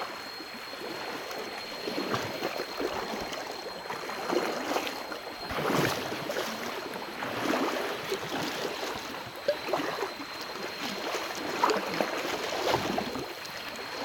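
Shallow stream water rushing and splashing, with irregular louder splashes. A faint, steady high-pitched tone runs underneath.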